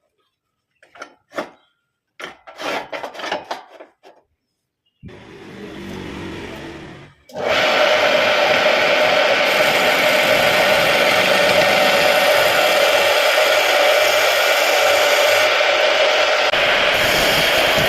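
Homemade wood lathe spinning a piece of surian wood while a turning tool cuts into it, a loud, steady scraping from about seven seconds in. Before that come a few short knocks and a softer noise lasting a couple of seconds.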